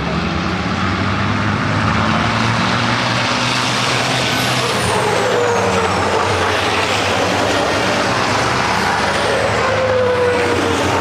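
Diesel engines of racing trucks running hard on the circuit, a loud steady din. Twice the pitch falls away as trucks go past.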